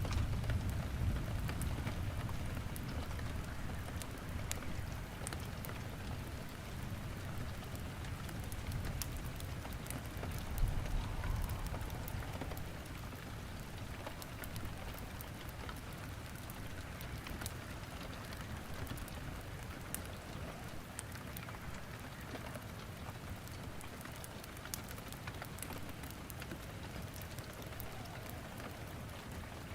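Steady rain with sharp, scattered crackles of burning firewood in a fireplace. A low rumble is strongest at the start, fades, and swells briefly again about ten seconds in.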